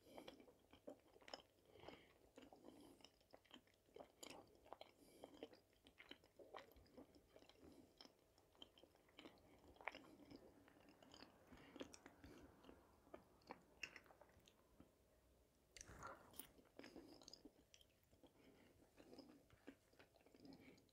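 Faint, close-miked chewing of soft potato dumplings, with scattered small mouth clicks and smacks.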